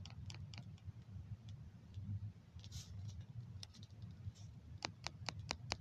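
Light clicks from someone working a computer or device during a search: a few scattered clicks, then a quick run of about five near the end, over a low steady room hum.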